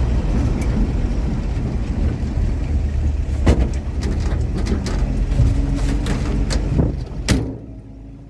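Inside the cab of a 1949 Chevy truck easing over a big bump: a steady low engine and road rumble with sharp rattling knocks from the body, one about three and a half seconds in and several close together near the end. The rumble then drops away.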